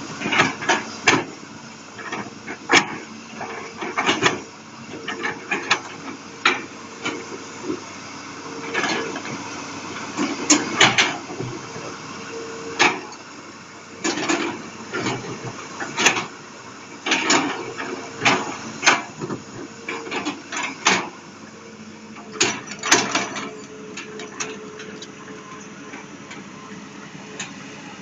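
Hitachi Zaxis200 excavator at work: irregular sharp metallic clanks and knocks, several a second in clusters, over the steady hum of its Isuzu 6BG diesel engine.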